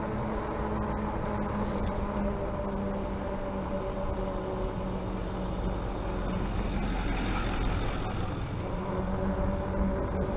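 Riding noise from a RadRover fat-tire e-bike in motion: a steady low rumbling rush with a faint even hum, and a few light clicks.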